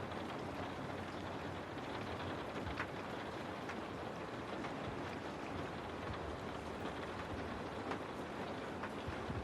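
Steady rain falling, a dense even hiss with a few louder single drops standing out now and then.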